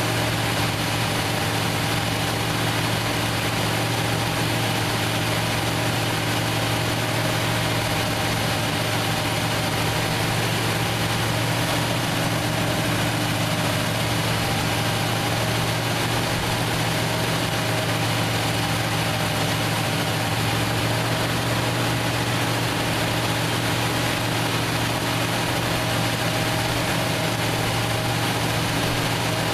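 1968 Plymouth Fury's 383 big-block V8, with a four-barrel carburettor, idling steadily at an even pitch, running again after years out of use.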